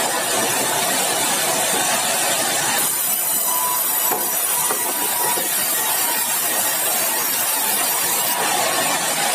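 Sawmill running, its saw cutting meranti batu timber: a steady, loud noise, strongest in the treble, that shifts in tone about three seconds in and again near the end.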